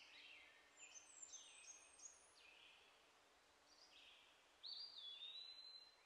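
Faint birdsong: a run of short chirps in the first couple of seconds, then one longer whistled note near the end.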